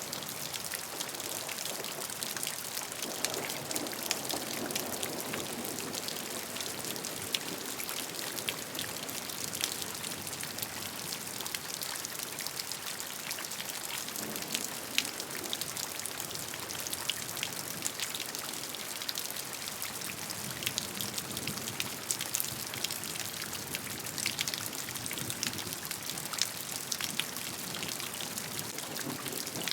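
Steady rain falling, with many individual drops heard as small sharp ticks over an even hiss. A few soft low swells come and go.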